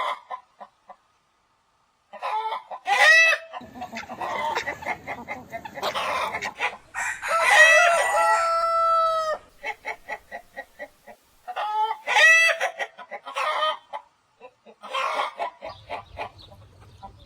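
Chickens clucking in short repeated calls, with a rooster crowing once near the middle, a single long held call.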